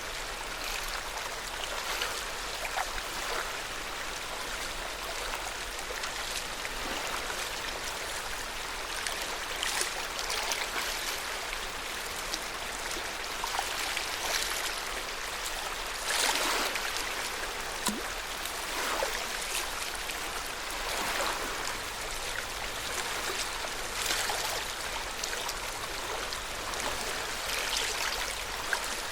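Lake Yamanaka's water lapping gently at the shore: a steady wash with frequent small splashes, one a little louder about halfway through.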